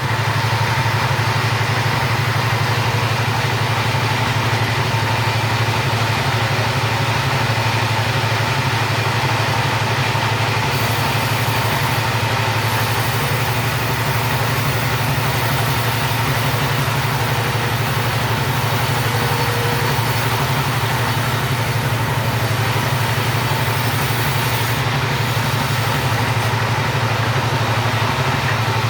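Two-stroke chainsaw engine running at a steady speed, its level even throughout.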